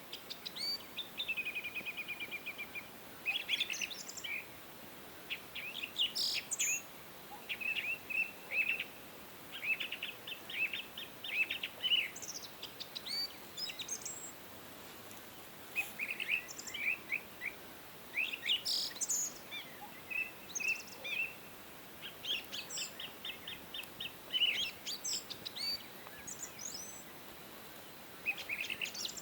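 Several songbirds singing and chirping, with quick trills and series of rapid notes, over a faint steady background hiss.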